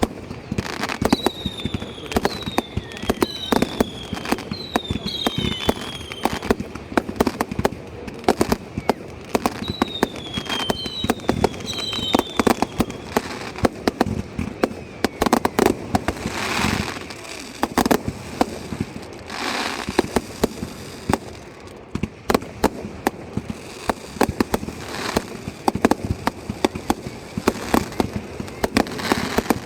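Fireworks display: a dense run of bangs and crackles throughout, with several short whistles falling in pitch in the first half and two longer hissing whooshes about halfway through.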